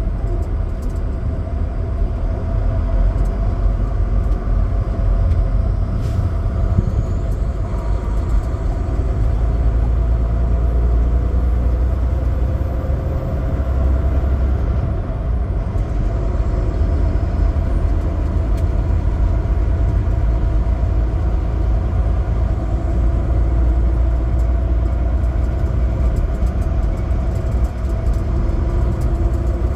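Semi truck's diesel engine running steadily while driving, with road noise: a continuous low rumble.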